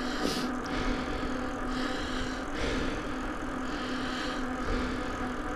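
Bicycle rolling along a road: a steady mechanical hum with tyre and air noise that swells and fades every second or so.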